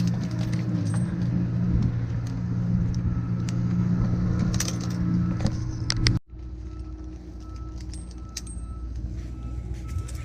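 An engine idling steadily, with light metallic jingling and clinks over it. About six seconds in the sound cuts off abruptly, and a quieter, lower hum follows.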